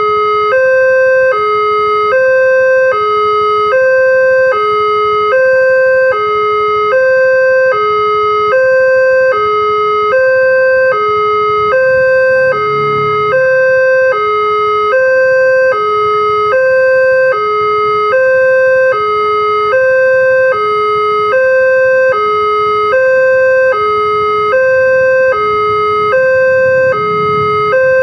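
Railway level crossing's electronic warning alarm sounding its two-tone signal: a higher and a lower note alternate, each held about half a second, over and over. It warns that a train is approaching and the barriers are down.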